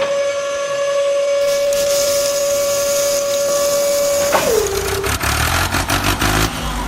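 A single long, steady horn-like tone that drops in pitch and fades about four and a half seconds in, followed by a low engine-like rumble with scattered clicks.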